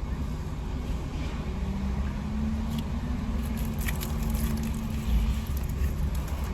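Steady low rumble of a motor vehicle, with a few faint small clicks.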